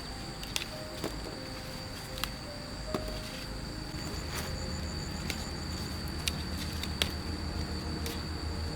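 Steady high insect drone, with sharp clicks or knocks coming irregularly about once a second.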